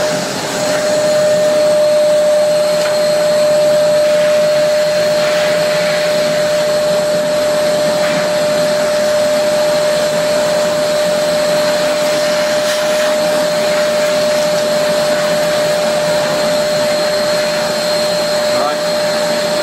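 V-Tuf VTM1240 M-class dust extraction vacuum running steadily at full suction while the nozzle picks up dust: an unbroken motor whine over a rush of air.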